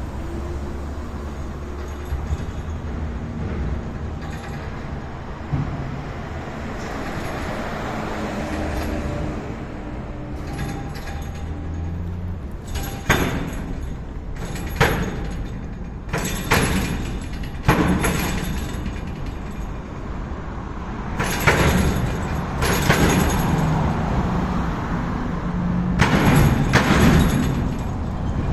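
Road traffic crossing a bridge, with a series of sharp knocks as vehicles pass over it, clustered in the second half. The knocking points to a loose or faulty part of the bridge, a fault that has broken before.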